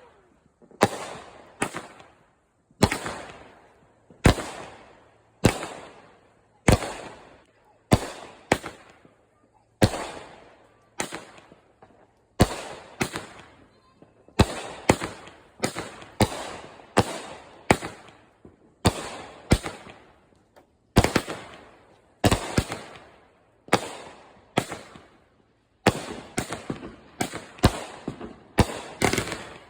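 A multi-shot consumer firework cake firing one shot after another. Sharp bangs come about once a second, each trailing off in an echo, and they come faster and in quick clusters near the end.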